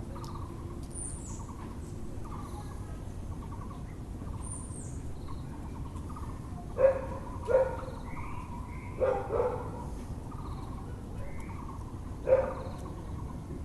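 A dog barking five times, in two quick pairs and then a single bark. Between the barks, over steady background noise, a Müller's barbet calls repeatedly and small birds give a few high chirps.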